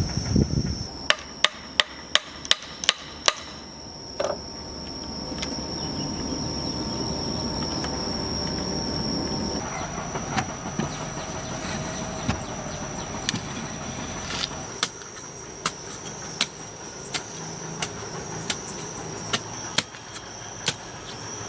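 Hand-tool hammering: a quick run of about seven sharp blows a second or so in, then a steadier series of spaced knocks, roughly one every half second to second, through the second half.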